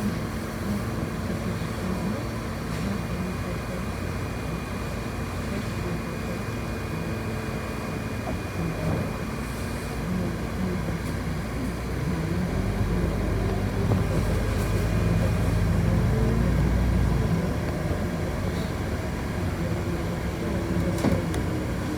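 Interior of a city bus under way: the motor running over steady road and rattle noise. About twelve seconds in the motor grows louder and its pitch climbs and bends as the bus pulls harder, easing back a few seconds later.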